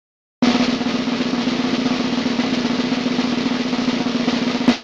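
Drum roll sound effect: a rapid, steady roll starting abruptly and lasting about four seconds, ending in one sharp hit.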